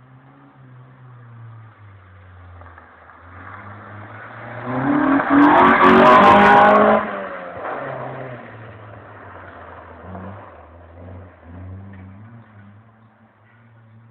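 Proton Compact engine driven hard, revving up and dropping through repeated gear changes. It swells to a loud full-throttle peak about five seconds in, with a few sharp clicks at the peak, and falls away after about seven seconds.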